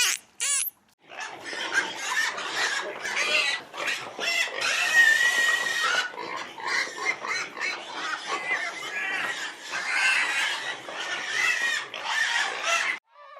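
A group of pigs squealing and grunting in a dense, continuous chorus that starts about a second in and stops shortly before the end, after a brief high call at the very start.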